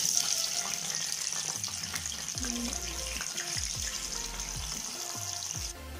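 Tofu cubes sizzling in hot cooking oil in a frying pan as they go in, a steady high hiss that stops abruptly near the end. Electronic background music with sliding bass notes plays underneath.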